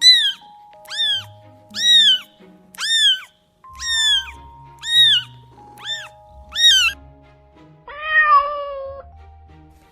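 A cat meowing over and over: about eight short, high-pitched meows, each rising then falling, roughly one a second, then a lower, longer meow near the end. Background music with sustained notes plays underneath.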